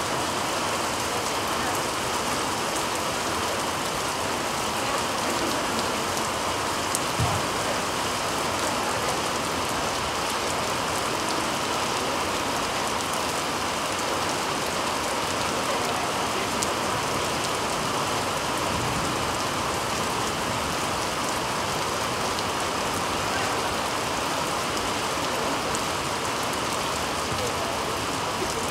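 Heavy rain falling steadily, an even hiss with no letup; a single short low thump about seven seconds in.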